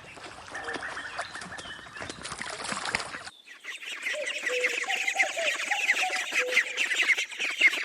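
Ducks calling, quacking and honking, from two recordings joined by an abrupt cut about three seconds in. The second recording has a dense, rapid high chatter from many birds.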